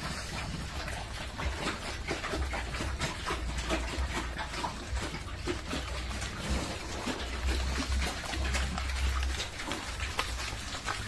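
Pigs eating dry feed: a dense, continuous run of chewing and snuffling clicks, over a low rumble.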